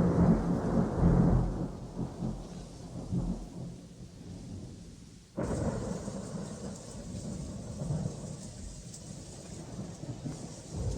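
Recorded sound effect of thunder: a loud rumble that dies away over about four seconds. About five seconds in, the sound cuts abruptly to a steady rain hiss with low rumbling underneath.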